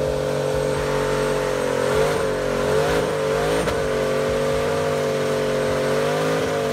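Car engine held at high revs during a burnout, running at a near-steady high pitch that dips briefly a few times, with the hiss of spinning tyres.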